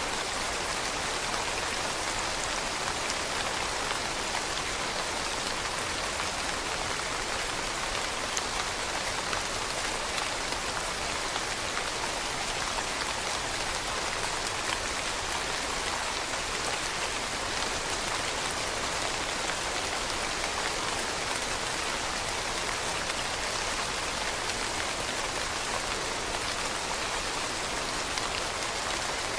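Steady rain falling on leaves: an even hiss of countless small drop patters.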